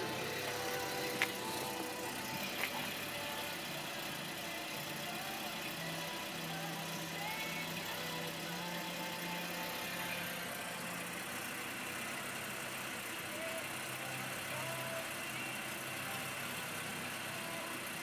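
1991 Citroën XM's engine idling steadily, with two light clicks in the first three seconds.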